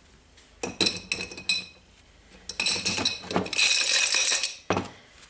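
Small steel parts of a disassembled rotary hammer clinking against each other and the bench: a short run of light, ringing clinks about a second in, then a denser flurry of clinks and rattles in the second half, ending with a single knock.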